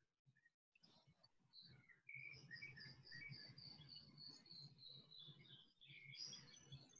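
Faint bird chirping: a quick run of short, high chirps that starts about a second and a half in and carries on until near the end, over a low steady hum.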